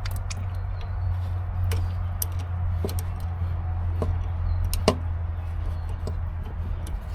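Scattered light clicks and taps of hand tools at a brake caliper during brake bleeding, with one sharper click about five seconds in, over a steady low hum.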